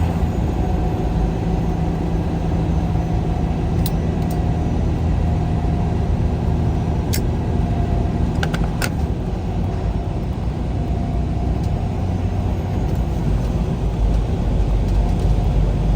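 A road vehicle driving along: a steady engine and road rumble, with a few faint sharp clicks about four, seven and nine seconds in.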